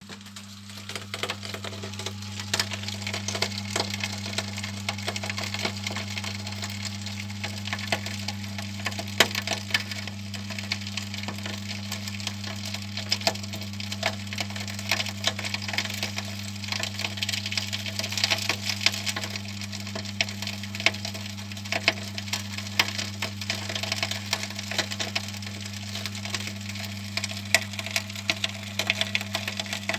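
Homemade furnace coal feeder running: a steady electric-motor hum under a continuous irregular crackling and clicking of eco-pea coal being moved and crushed.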